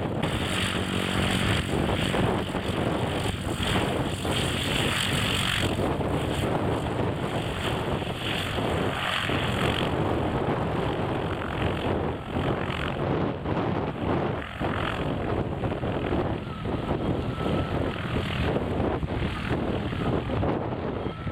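Propeller aircraft in flight, a steady engine drone with a low hum that is strongest for the first six seconds or so.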